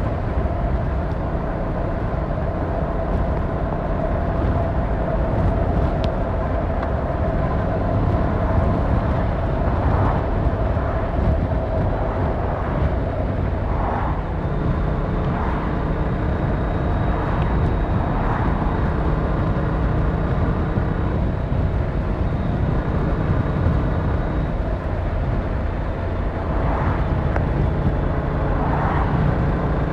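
Yamaha MT-07's 689 cc parallel-twin engine running steadily at road speed, heard together with the ride's wind and road noise. The engine note shifts about halfway through, and a few short swells rise and fall.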